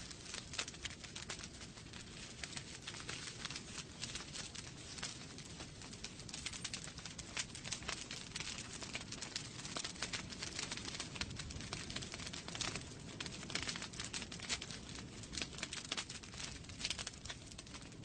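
Wood fire burning in a fireplace: dense irregular crackling and popping of burning logs over a low steady rush of flames.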